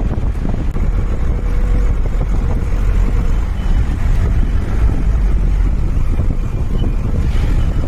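Steady low rumble of a vehicle moving along a road, heard from on board.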